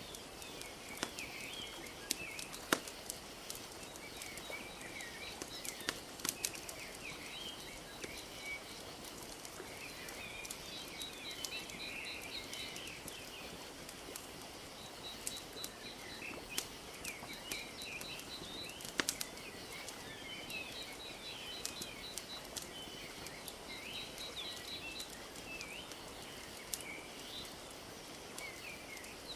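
Wood fire crackling with scattered sharp pops over a steady hiss of water lapping at a lake shore. Small birds chirp and twitter throughout, with short repeated trills.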